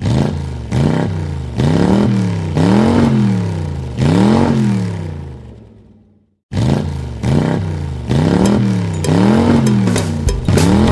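An engine revving up and down over and over, each rise and fall lasting about a second. It fades out around six seconds in and, after a brief silence, starts the same pattern again.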